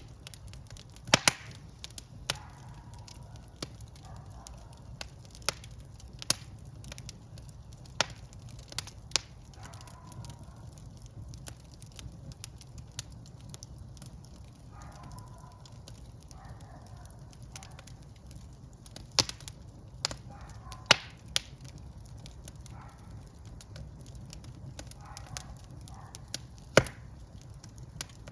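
Wood fire burning in a fireplace: irregular sharp crackles and pops, a few of them loud, over a steady low rumble of the flames, with faint soft hissing now and then.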